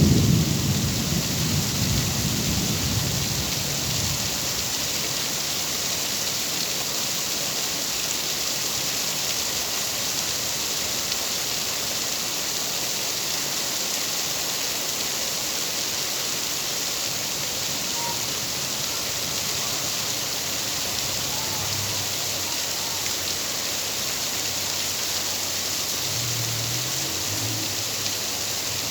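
Steady heavy rain, with a low rumble of thunder at the start that fades out over the first few seconds.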